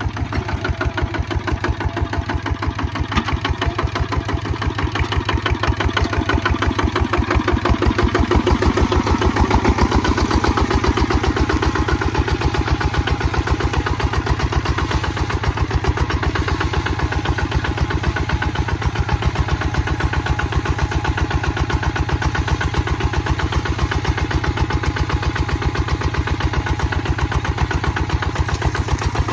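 Kubota ZT155 DI single-cylinder diesel engine running steadily with rapid, even firing beats, a little louder about eight to twelve seconds in.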